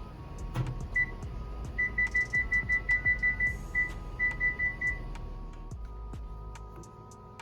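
A kitchen appliance's keypad beeping: a quick run of short high beeps, about six a second, that stops and starts a few times before ending about five seconds in. Background music plays underneath.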